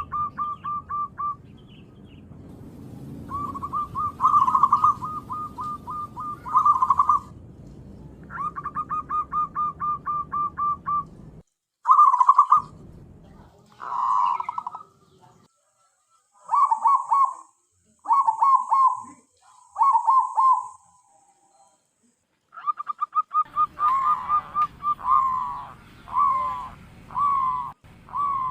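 Zebra dove (perkutut) cooing over and over: rolling runs of quick notes at about the same pitch, in phrases a second or two long with short pauses between. The calls break off into complete silence twice, about 12 and 22 seconds in.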